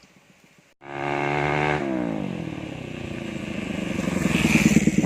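Bajaj Pulsar NS200's single-cylinder engine heard through an aftermarket Daytona SS exhaust. Its note starts abruptly after a faint first second, holds steady, then drops in pitch and builds louder again toward the end.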